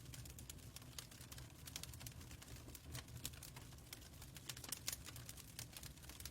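Fireplace crackling faintly: a dense, irregular patter of small pops and snaps over a low, steady rumble of the fire.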